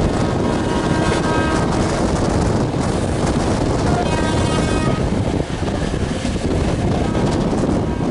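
Train running at speed: a steady rumble of wheels on rail mixed with wind noise on the microphone.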